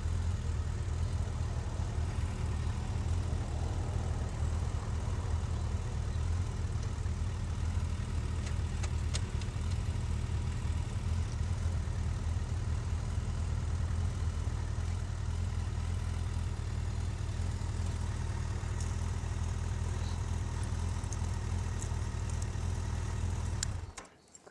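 Motorcycle engine idling steadily, then switched off near the end, cutting out suddenly.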